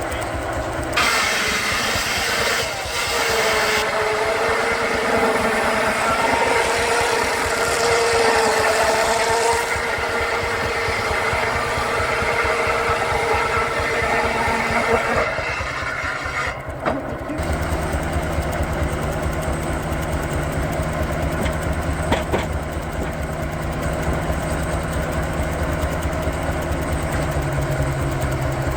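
Baker 23-90 uniflow steam traction engine running belted to a Frick sawmill, with a rapid, even exhaust beat. A wavering whine, typical of the circular saw cutting through a log, carries over it from about a second in and stops around two-thirds of the way through, leaving the engine's steady low beat.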